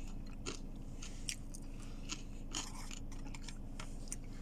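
A person chewing food close to the microphone, with scattered small crunches and clicks, over a steady low hum.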